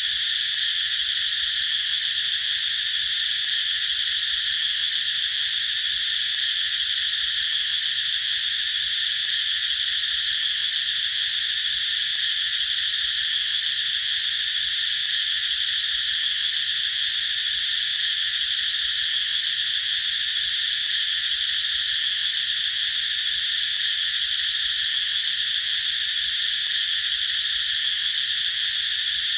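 Cicadas singing in a dense chorus, a continuous high-pitched drone that holds steady without a break.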